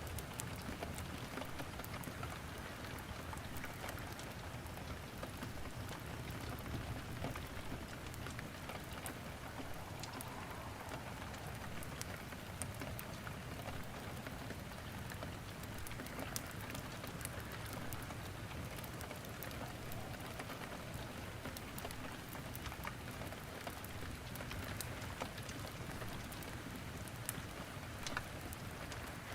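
Steady rain with scattered crackles and pops from firewood burning in a fireplace.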